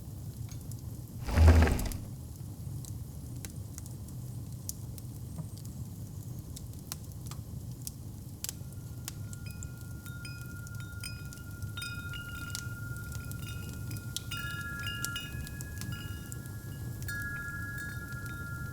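Fireplace fire crackling with scattered sharp pops over a low steady rumble, with one loud thump about a second and a half in. From about halfway, wind chimes ring in scattered high tones that build up toward the end.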